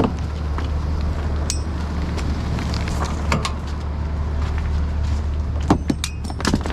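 Scrap metal clinking and knocking as it is handled, with a few sharp metallic clanks that ring briefly, in a cluster near the end, over the steady low hum of an idling vehicle engine.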